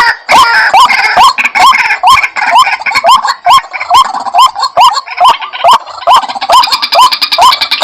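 White-breasted waterhen (ruak-ruak) calling: a loud, monotonous run of short, rising notes, about two a second, with more calls layered over them.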